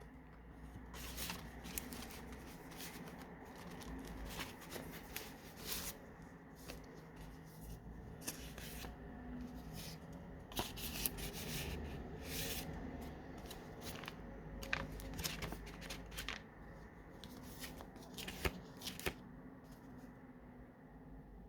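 Paper pages of a handmade junk journal being turned and handled: irregular paper rustling and crinkling with many short, sharp ticks and flicks.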